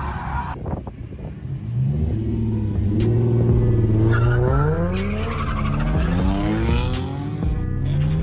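Drift car engine revving hard, its pitch climbing and falling again and again as the car is held in a slide, with tyres squealing. The engine builds up from a quieter moment about a second or two in.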